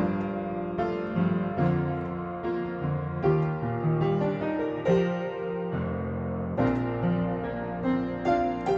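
Background piano music, gentle and unhurried, one note or chord after another.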